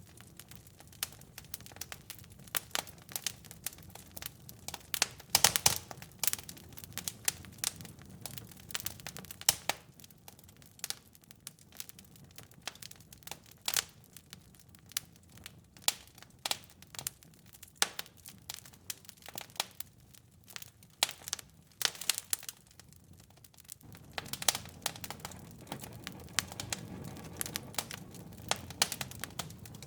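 Fireplace fire crackling and popping: irregular sharp snaps, thickest a few seconds in, over a low steady rush that grows louder in the last few seconds.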